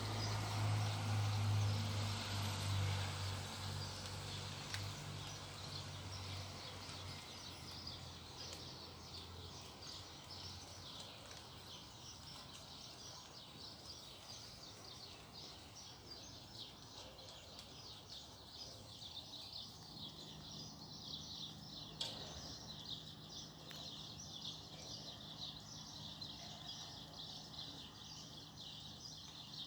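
Rain falling steadily, a fine high pattering. A low hum is loudest at the start and fades away over the first several seconds, and a fainter hum comes back about two-thirds of the way through.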